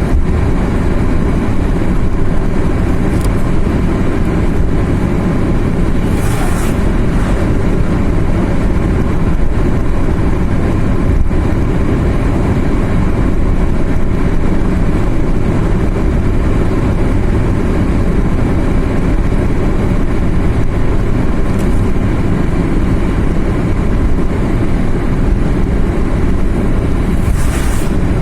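A car driving steadily on the road, with a constant low rumble of engine and tyre noise. A brief rushing hiss comes about six seconds in and again near the end.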